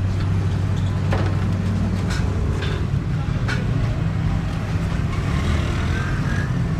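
Steady low hum of running machinery, with a few light sharp taps over it.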